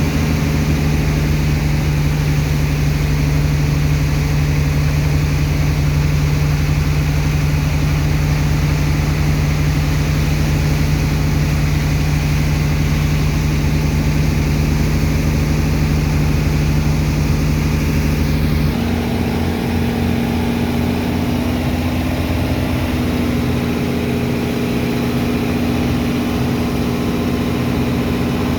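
Engine of a sand-pumping dredger machine running at a steady drone. About two-thirds of the way through, the note changes abruptly to a higher-pitched hum.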